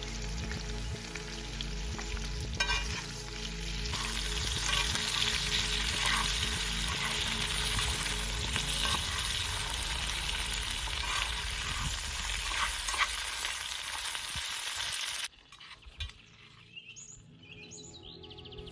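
Food sizzling and frying in a pan over a fire, with occasional clicks as it is stirred. The sizzling is steady, gets louder about four seconds in, and cuts off suddenly about fifteen seconds in, leaving a much quieter background.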